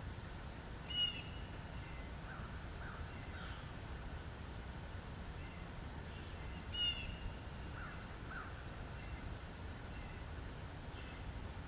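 Birds calling: two louder harsh calls, about a second in and again nearly six seconds later, with fainter chirps and short high notes between them, over a steady low background rumble.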